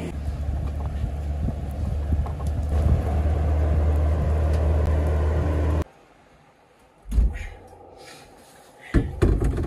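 Steady low rumbling noise of heavy rain, which cuts off abruptly about six seconds in to a much quieter background, followed by a dull thump a second later and another knock near the end.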